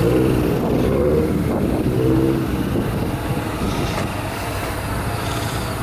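A car engine running with a steady low hum, its tone growing stronger briefly in the first second and again about two seconds in.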